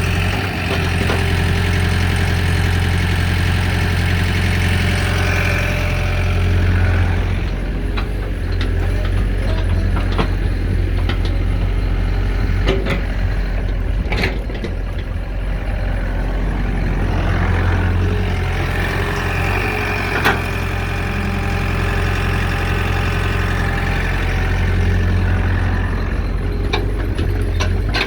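Excavator diesel engine running under load, with a hydraulic whine that swells for the first six seconds and again from about eighteen to twenty-six seconds. Scattered knocks and clanks in between.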